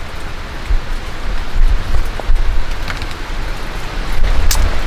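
Steady rain: a continuous hiss with a few sharp drop ticks, over a low, uneven rumble.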